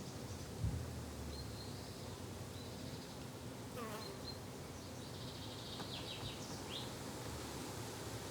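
Flying insects buzzing steadily in a low hum, with birds chirping briefly at several points and one falling call midway. A short knock sounds just under a second in.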